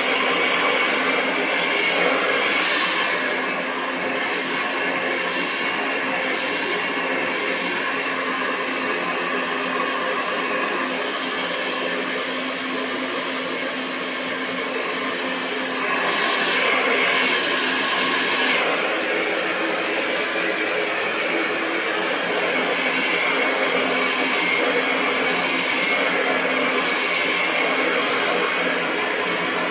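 Hair dryer blowing continuously: a steady rush of air with a motor hum running under it. The loudness dips slightly a few seconds in and comes back up about halfway through.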